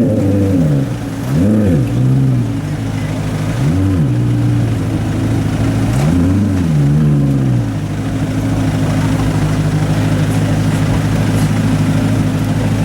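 Maserati Quattroporte GTS 4.7-litre V8 through a Larini sports exhaust, revving up and back down four times in quick blips, then running steadily at a constant pitch from about eight seconds in.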